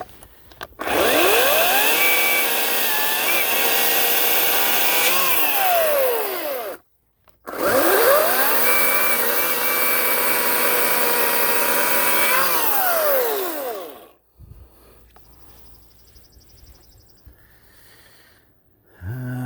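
Ryobi 18-inch battery-powered electric chainsaw run twice, cutting small birch branches. Each run lasts about six seconds: the motor whines up to speed, holds with slight dips in pitch as the chain bites, then winds down when the trigger is released.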